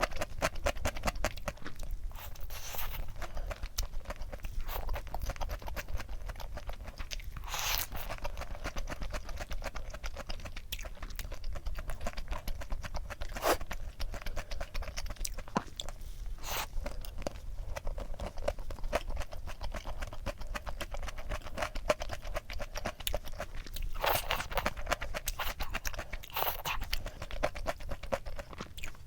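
Close-miked chewing of crunchy food: a steady run of small mouth clicks and crunches, with several louder bites standing out, about five times.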